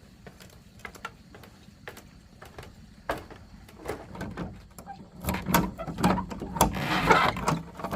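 Irregular knocks and clatter, sparse at first, then busier and louder in the second half.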